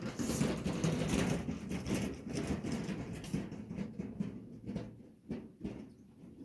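Split pine firewood knocking and scraping as it is handled and stacked. Dense knocks and rustling thin out to a few separate knocks about halfway through, then fade.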